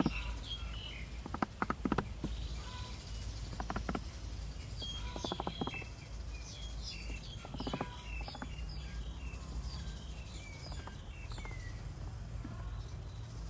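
Small birds chirping and tweeting over a steady low hum, with a few short bursts of rapid clicking.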